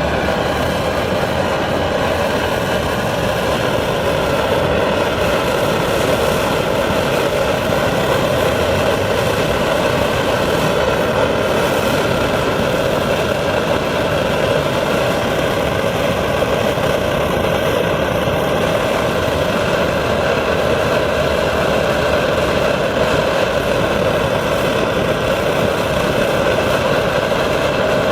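Hoebus 725 pressurized liquid-fuel camp stove burning, its burner giving a loud, steady rushing roar that holds unchanged throughout.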